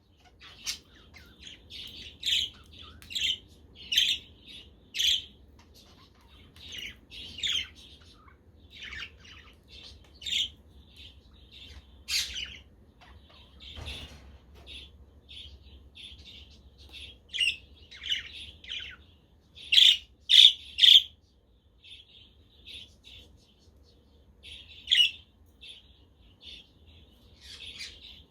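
Budgerigars chirping and chattering, a steady run of short calls with gaps between them, three louder calls close together about twenty seconds in.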